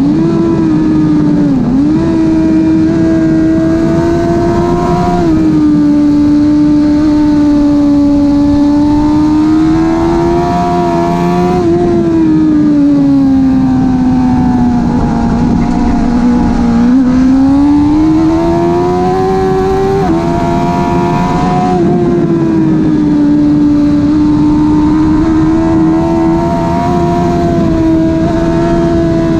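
2005 Suzuki GSX-R 1000 inline-four, with a slip-on exhaust, running at high revs under hard acceleration, recorded onboard. The pitch holds high, then drops suddenly at gear changes, about five seconds in and again about twenty seconds in. In the middle it falls slowly for several seconds as the bike slows, then climbs again.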